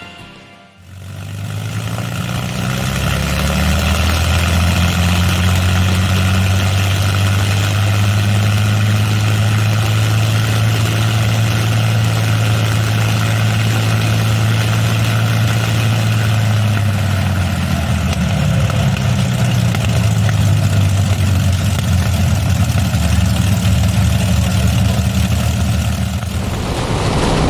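Car engine running steadily on the move, with a continuous hum of road noise; the engine note changes about two-thirds of the way through and again near the end.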